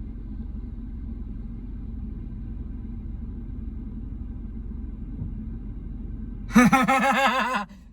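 A steady low rumble with faint steady hums cuts off about six and a half seconds in. Then a loud warbling tone, wavering up and down several times a second, sounds for about a second and stops.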